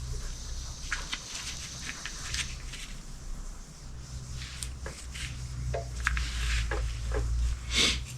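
Workshop handling noises: scattered clicks and knocks of parts and tools over a steady low hum, with a brief hiss in the first couple of seconds and a louder short rustle near the end.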